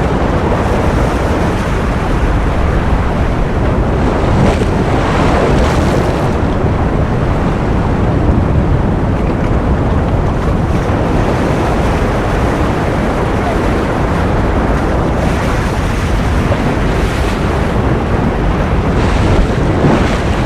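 Ocean surf as continuous steady noise, dense and low-weighted, swelling a little brighter and hissier a few times as waves break.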